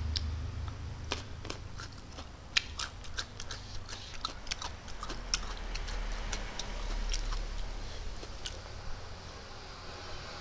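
Close-miked chewing of noodles: a run of wet mouth clicks and smacks, thinning out after about eight seconds, over a low steady hum.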